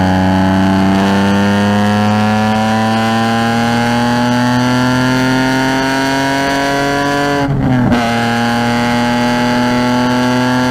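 Car engine pulling hard on a race track, its pitch climbing slowly as it accelerates, then a quick gear change about three-quarters of the way through drops the revs before it pulls again.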